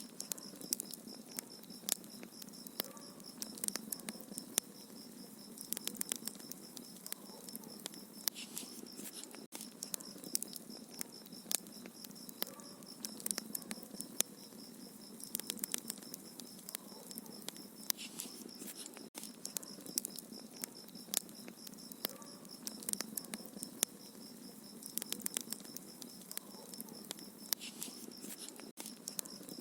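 Wood fire crackling in a fireplace, with frequent small snaps and pops coming in irregular clusters over a steady hiss.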